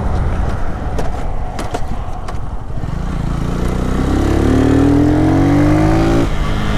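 Lifan KP motorcycle engine under way, with wind rumble on the microphone. A few light clicks come in the first half. From about four seconds in the engine note climbs steadily as the bike accelerates, then drops off suddenly near the end, as at a gear change.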